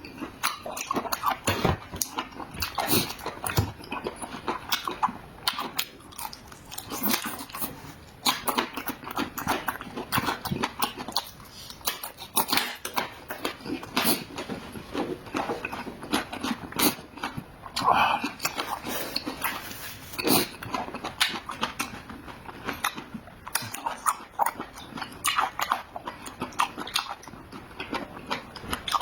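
Close-miked chewing of a person eating, with dense, irregular wet smacks, crunches and clicks of the mouth.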